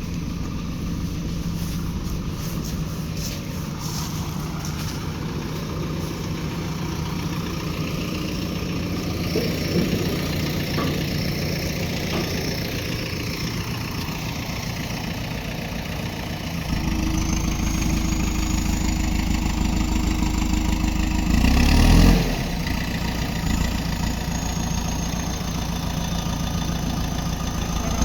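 Diesel engine of a JCB 3DX backhoe loader running steadily, then labouring louder under load about two-thirds through, with a loud knock shortly after, before it settles back to a steady run. A faint high whine rises and falls over it.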